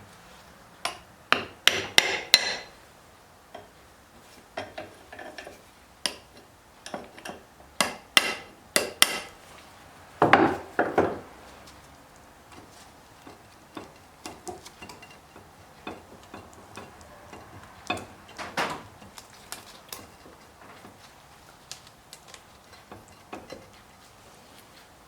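Clusters of sharp knocks and taps on the gear case of a Simpson Supremacy garden tractor as the stuck cover is worked loose to split the case, with lighter clicks and scrapes between the strikes.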